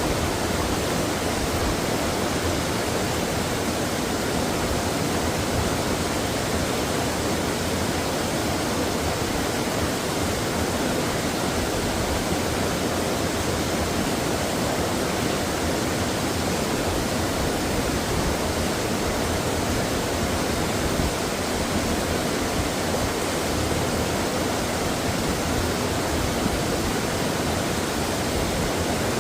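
Mountain valley stream water flowing, a steady, unchanging rush of water.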